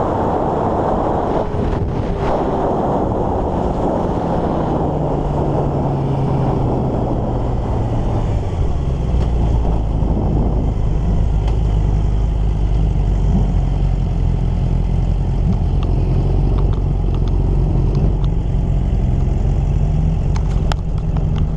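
Racing motorcycle engine running under heavy wind rush. Its pitch falls over the first several seconds, holds low and steady, then rises again near the end.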